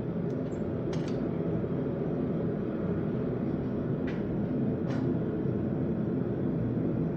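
Forge running with a steady low rumble between hammering spells, broken by a few faint clicks of metal.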